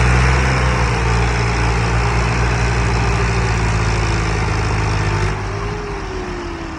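Tractor diesel engine running hard with a deep, steady beat and a whine that slides up and down in pitch. It eases off a little over five seconds in.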